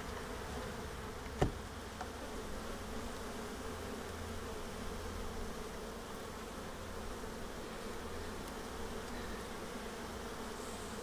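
Honeybees buzzing steadily around an open hive, with one sharp click about a second and a half in.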